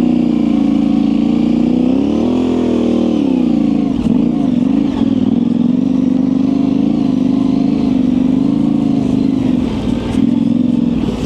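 Yamaha Ténéré 700's parallel-twin engine, fitted with an aftermarket high exhaust, running steadily at low revs under trail riding. Its pitch climbs and falls back once about two to three seconds in as the throttle is opened and eased, then wavers slightly.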